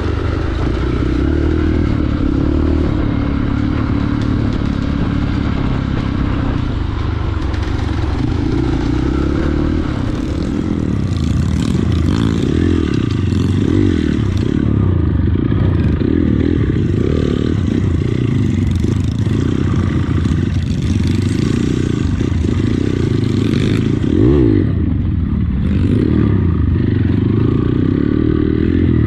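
Trail motorcycle engine running with the throttle opening and closing, its pitch rising and falling throughout.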